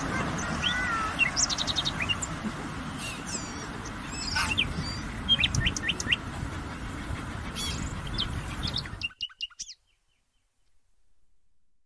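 Several wild birds chirping, trilling and whistling together in a forest, with many short calls over a steady low background noise. The sound cuts off abruptly about nine seconds in.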